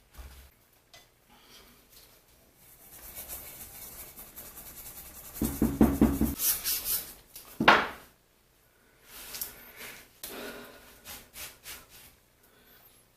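Intermittent scraping and scrubbing on a vise casting as thick caked grease and grime are worked off. The strokes are loudest and most frequent about halfway through, with one sharp stroke soon after.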